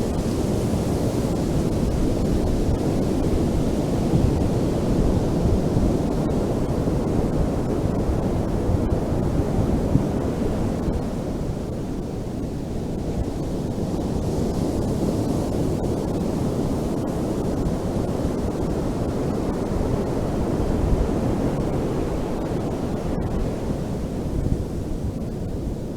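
Ocean surf breaking and washing continuously, with a rumbling wash and a brighter hiss that swells near the start and again about halfway through as larger waves break.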